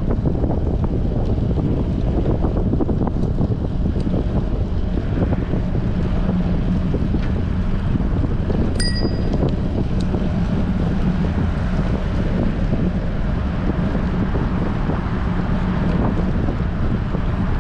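Strong wind buffeting the microphone of a bicycle-mounted action camera while riding, a steady loud rumble. A brief high ringing tone sounds about nine seconds in.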